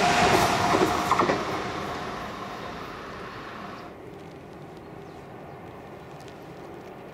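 An electric passenger train running away into the distance: its rolling noise fades steadily over about four seconds. A short faint tone sounds at the start and a few sharp clicks come about a second in, then only a low background is left.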